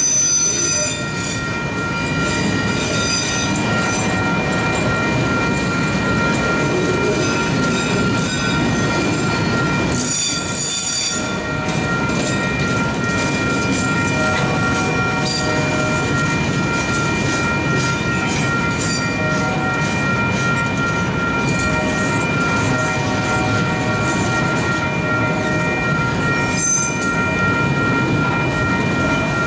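Autorack freight cars rolling past over a grade crossing, steel wheels squealing now and then, most strongly about ten seconds in and near the end, with the crossing bell ringing steadily over the rumble of the cars.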